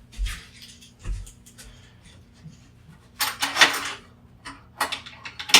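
Hand tools clicking and scraping against a plastic wall adapter being pried apart, with a longer rasping crunch about three seconds in and sharp clicks near the end, over a steady low hum.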